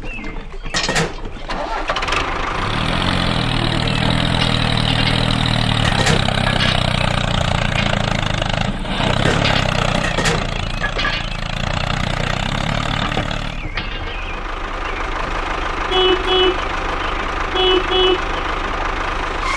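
A machine engine, a mini bulldozer or tractor sound effect, runs steadily for most of the stretch. Near the end come two pairs of short beeps.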